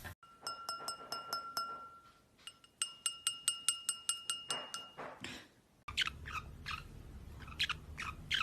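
Two quick runs of light taps on something that rings with a clear, steady tone, like a small bell or glass being struck repeatedly, about five taps a second. Near the end, a parrot gives several short chirps that fall in pitch.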